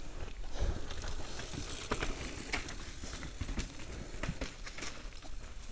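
Irregular light knocks, clicks and rattles of a mountain bike and rider on a rocky, rooty trail, over a low rumble, with a faint steady high-pitched whine throughout.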